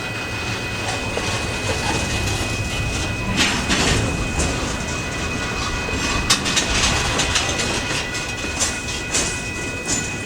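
Freight train rolling along the track, its wheels clicking and knocking over rail joints at irregular intervals over a steady mechanical hum.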